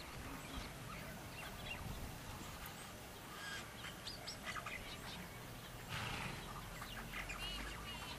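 Birds calling: scattered short chirps, with a quick run of repeated notes near the end.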